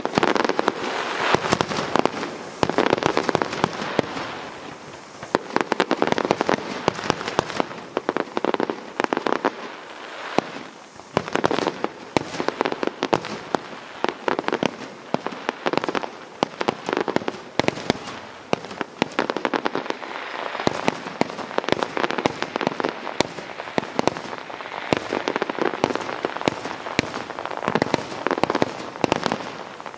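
Fireworks display: aerial shells bursting with a dense run of sharp bangs and crackling, swelling louder in clusters every few seconds.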